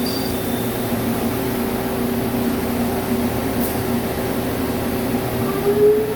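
Vertical lathe machining a steel subway wheel, running with a steady hum and whine; near the end one tone rises in pitch as the machine changes speed.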